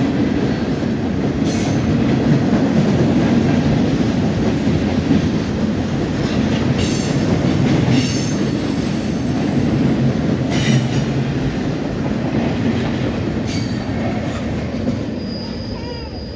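Freight cars rolling past close by, a steady heavy rumble of wheels on rail, with a few brief high squeals. The rumble eases near the end as the train pulls away.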